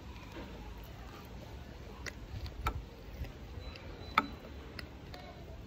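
Close-miked chewing of a mouthful of açaí with crunchy tapioca flour, with a few sharp clicks, the loudest about four seconds in.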